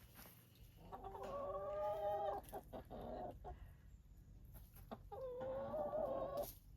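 Chicken calling: two long drawn-out calls, each about a second and a half, with a few shorter clucks between them.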